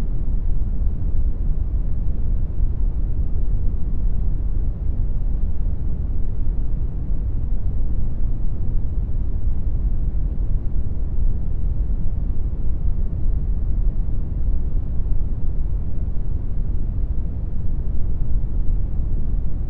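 Synthetic brown noise: a steady, deep rushing hiss, strongest in the bass and falling away toward the treble, with no changes.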